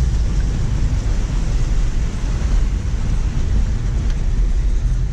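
A Subaru driving through flash-flood water: the engine running while water rushes and splashes against the car, a steady low rumble with a hiss over it.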